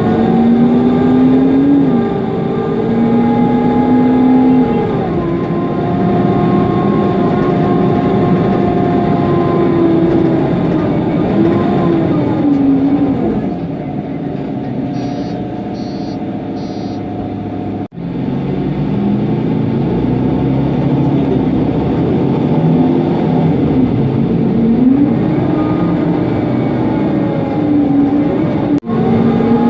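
Interior ride sound of a Mercedes-Benz Conecto NGT city bus under way: its OM 936 G natural-gas engine and noisy cooling fan run with a steady drone. The pitch jumps in steps through the automatic's gear changes, falls as the bus slows, then climbs again. About fifteen seconds in there are three short high beeps, and the sound cuts out for an instant twice.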